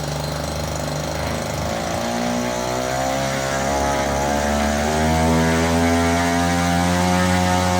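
Fokker F.II aircraft's piston engine running on a ground test, its propeller turning. The engine speed rises gradually for the first few seconds and then holds steady.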